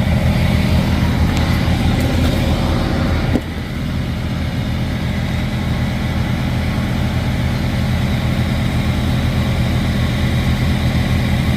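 Freightliner Cascadia semi truck's diesel engine idling steadily. A single sharp knock sounds about three and a half seconds in, after which the idle is a little quieter.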